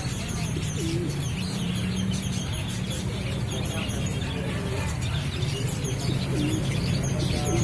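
Many small caged birds chirping and twittering at once in short, overlapping calls, over a steady low hum.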